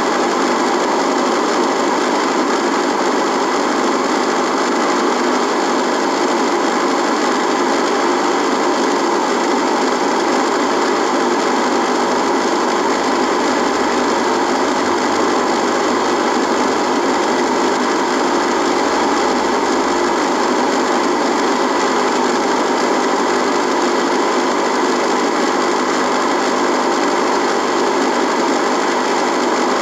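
Radio buzzing: a steady electrical buzz of many fine, even tones over hiss, unchanging in pitch and loudness.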